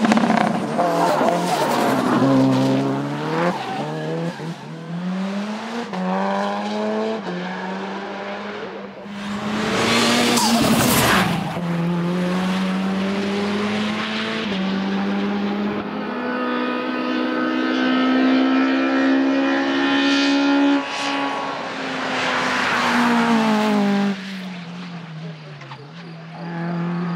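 Racing car engines at full throttle on a hillclimb course, the pitch climbing and dropping in steps with gear changes. About ten seconds in there is a loud rush with tyres squealing as a car passes close, and near the end the engine note falls away and fades.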